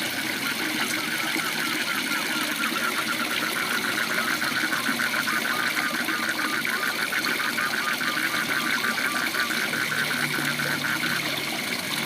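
Waterfall's steady rush of water, with frogs calling in a rapid, even train of short pulses through most of it.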